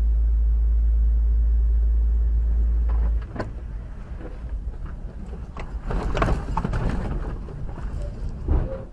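Car noise on a dash-cam recording: a loud, steady low rumble that stops about three seconds in, followed by uneven road noise with several sharp knocks, clustered around six seconds in and once more near the end.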